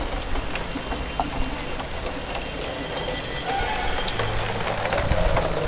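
Rain falling steadily, with many individual drops ticking sharply on surfaces close by.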